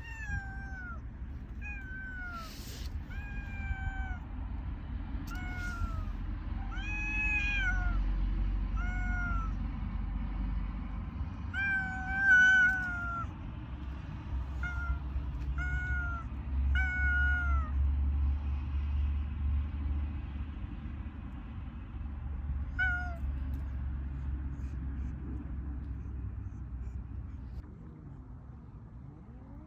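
Stray cat meowing over and over, a dozen or more short, mostly falling meows about a second or two apart, stopping about three-quarters of the way through. A low steady rumble runs underneath.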